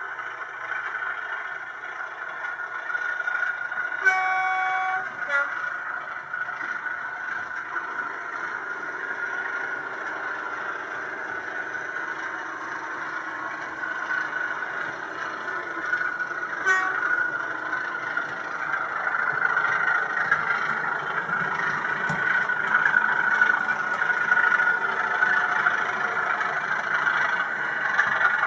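Sound-fitted model Class 37 diesel locomotive: its diesel engine sound plays steadily through the model's small speaker, getting louder towards the end, mixed with the running noise of the model train. About four seconds in the horn sounds for about a second, followed at once by a brief higher note, and a short faint toot comes about halfway through.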